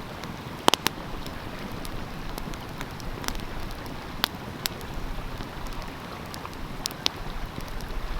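Wood fire crackling, with sharp scattered pops, two close together a little under a second in, over the steady rush of a flowing stream.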